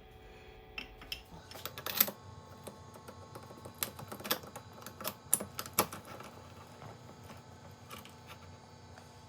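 Irregular sharp metallic clicks and knocks of tooling being handled and tightened on a milling machine, the loudest about two seconds in.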